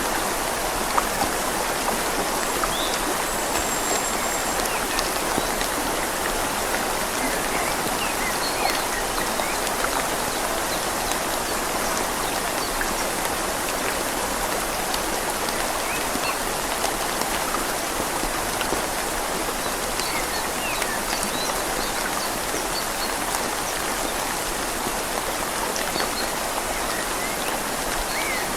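Rain falling on leaves over a flowing river: a steady, even rush of water with scattered small drip ticks.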